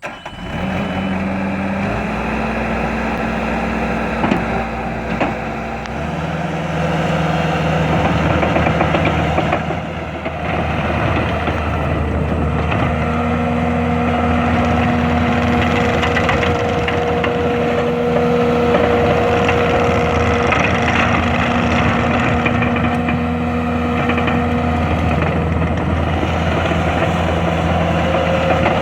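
Diesel engine of a 2010 Bobcat compact track loader running steadily, its pitch stepping about two and six seconds in as the engine speed changes. A steady higher whine joins in from about halfway through.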